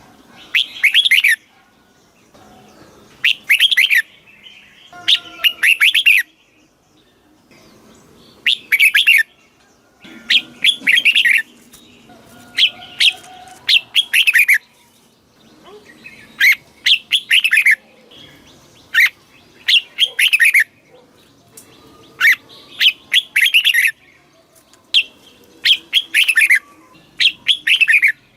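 Red-whiskered bulbul singing: about a dozen loud, short warbling phrases, each roughly a second long, repeated with brief pauses between them.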